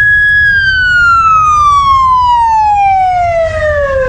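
Emergency vehicle siren wailing. Its pitch holds high, falls slowly for about three and a half seconds, then sweeps quickly back up near the end, over a steady low rumble.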